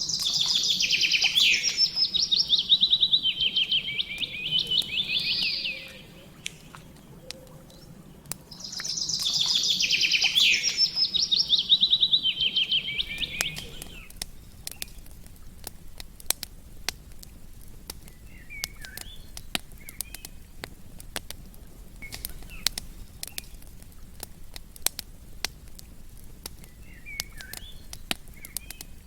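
A songbird sings two loud phrases of rapid trilled notes, each about five seconds long, stepping down in pitch. After the second phrase a campfire crackles with sharp pops, while faint chirps sound now and then.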